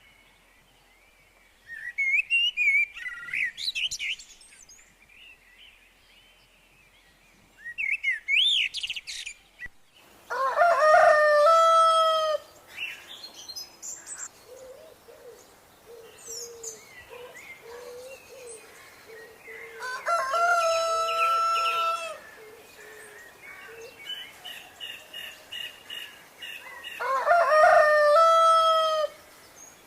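Small birds chirp in two short bouts. Then a rooster crows three times, each crow about two seconds long, with hens clucking softly in between.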